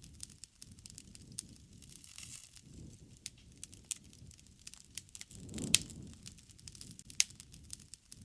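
Wood fire burning, with sharp irregular crackles and pops over a soft low rush of the flames that swells briefly about two-thirds of the way through.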